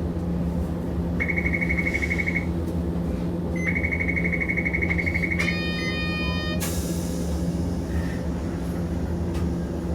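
Hiroshima Electric Railway 650-type tram car standing at a stop with a steady low hum: an electric buzzer sounds twice, the first about a second long and the second about two seconds, then a harsher buzzer tone for about a second, followed by a sudden hiss of air, the departure signalling just before the tram moves off.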